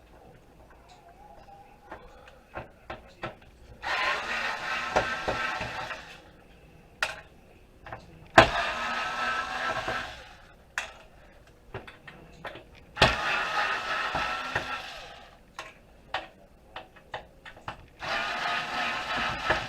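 Power drill-driver running in four bursts of about two seconds each, backing the screws out of a computer motherboard. Small clicks and clatter of handling come between the bursts.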